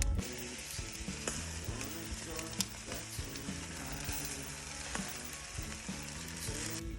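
Chicken sizzling on a grill over a wood fire in a fireplace: a steady hiss with scattered sharp pops and crackles.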